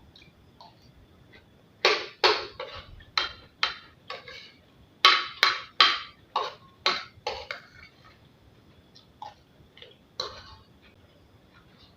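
Spoon clacking and scraping against a plate while eating abacha: a run of sharp clacks about two a second for several seconds, then a few fainter ones.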